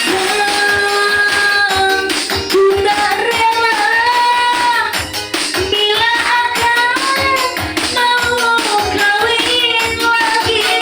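Music: a voice singing long, ornamented notes that bend and waver, over steady tambourine-like percussion.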